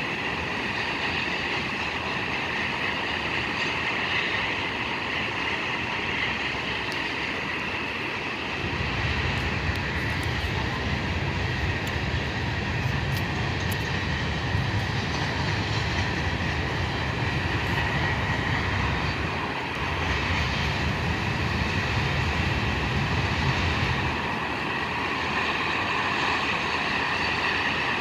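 Train rolling past, its low rumble coming in about eight seconds in and easing off near the end, over a steady higher hiss.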